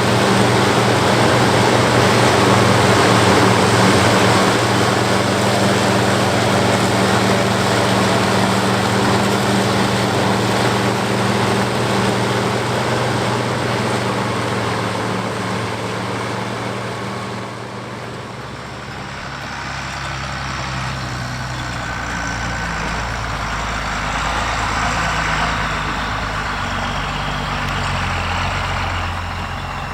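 International 1086 tractor's turbocharged six-cylinder diesel working under load with the New Holland FP240 forage harvester chopping corn: a steady engine tone under the dense rush of the cutterhead and blower. A little past halfway the sound dips and turns deeper, the high rush fading and a lower rumble taking over.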